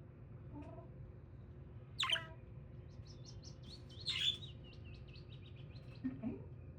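Pet budgie chirping: two louder calls about two and four seconds in, with a run of quick, short chirps, several a second, between and after them.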